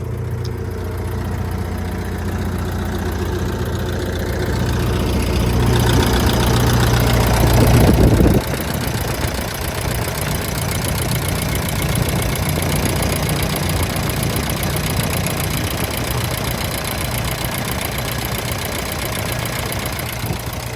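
Excavator diesel engine idling steadily, growing louder for a few seconds and then dropping back suddenly about eight seconds in. The engine runs clean, with no blow-by.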